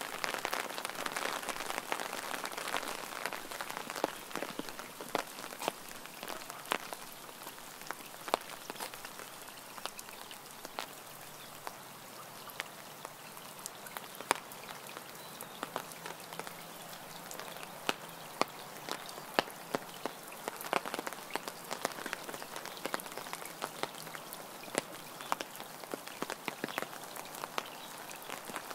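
Rain falling, a steady hiss with many sharp separate drop taps scattered through it; the hiss eases a few seconds in.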